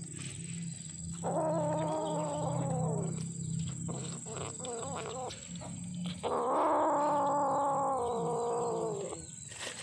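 A kitten giving two long, angry yowls a few seconds apart, each about two to three seconds long and dropping in pitch at its end. This is the warning wail of a kitten that is angry at being disturbed while it eats.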